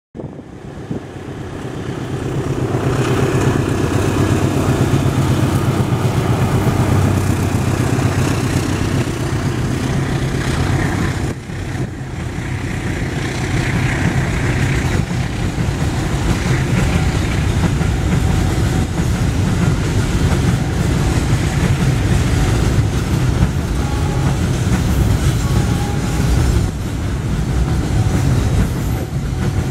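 A long container freight train, hauled by a CC 206 diesel-electric locomotive, passes close by: the sound swells over the first few seconds as the train arrives, then the loaded flat wagons roll past with a steady low rumble and clatter of wheels on the rails.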